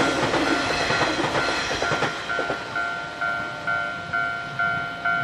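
Nishitetsu electric train running past, its wheels clattering over the rails. A level-crossing warning bell rings about twice a second throughout; it stands out more after about two seconds, once the train noise dies down.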